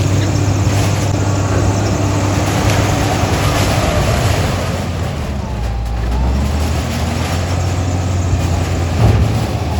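A heavy engine running steadily, with a low hum and a short knock about nine seconds in.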